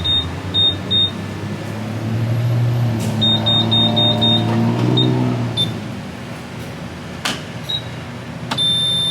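Gas pump keypad beeping: short high electronic beeps in quick strings, then a few single ones and a longer beep near the end, as the fuel grade and options are selected, over a steady low hum.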